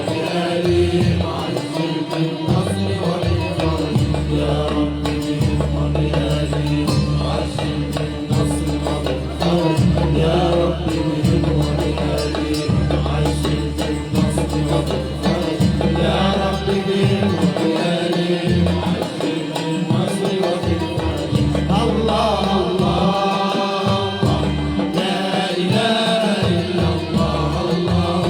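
Malouf music played live by an ensemble: voices singing over a steady, heavy drum rhythm.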